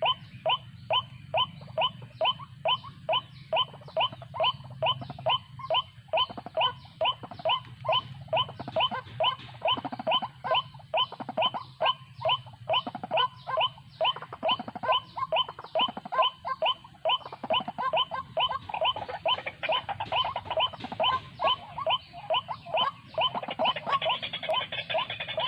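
White-breasted waterhen calling: a harsh, monotonous string of short notes repeated about two to three times a second without a break, the call used to lure these birds into traditional snares. Near the end a hiss rises under the calls.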